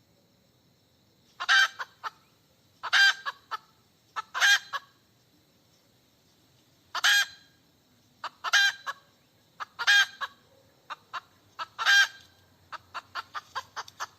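Hen cackling: seven loud, drawn-out calls with short clucks between them, ending in a quick string of short clucks. The uploader takes the calling for a hen calling for a mate.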